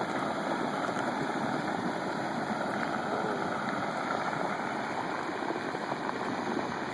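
Flash-flood water rushing steadily down a wash, a dense, even rush of churning water.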